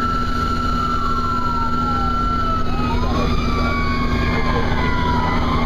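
Fire engine siren wailing, its pitch holding high, then slowly falling and rising again, over the steady drone of the truck's engine.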